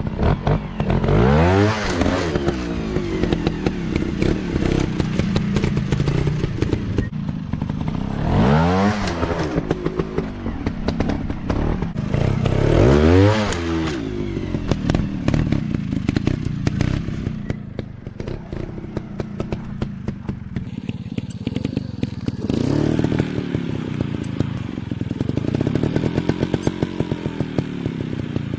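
Dirt bike engines revving hard and dropping back three times in the first half, then running at lower, steadier revs.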